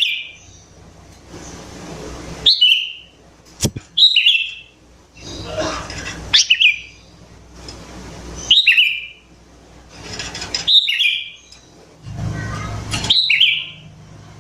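Sooty-headed bulbul (kutilang) calling, a short sharp note that flicks up and drops back, repeated about every two seconds, over a background hiss and low hum. A single sharp click sounds a little under four seconds in.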